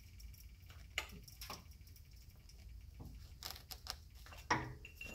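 Irregular sharp clicks, about five or six, from an Aldan coilover as the suspension is worked on the jacked-up car, the strongest near the end. The owner suspects the coil spring clicking as it expands or compresses.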